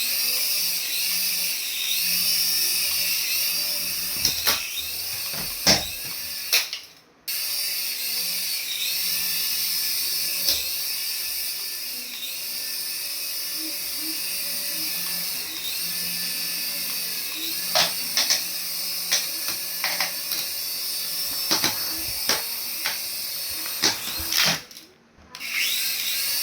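Small electric motor of a battery-powered remote-control toy whirring steadily, with a faint rise and fall about once a second and scattered clicks and knocks of plastic parts. The sound cuts out briefly twice.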